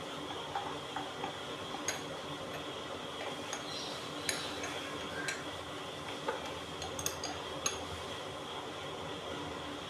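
Small metal pump parts being handled, giving about ten light clinks and taps at uneven intervals over a steady background hum.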